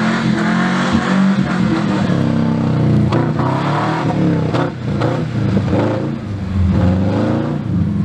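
Subaru EJ22 flat-four with unequal-length headers and the axle-back exhaust removed, revving up and down as the car is driven hard past through the snow.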